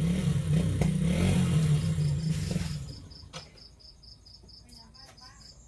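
A motorcycle engine running, loud at first and then dropping away about three seconds in. Behind it a cricket chirps steadily, about four times a second, with a sharp click partway through.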